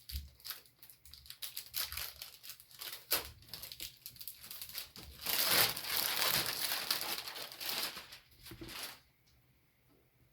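Plastic packaging crinkling and tearing as the laser engraver's metal base plate is unwrapped: scattered crackles at first, a denser stretch of crinkling for a few seconds, then it stops near the end.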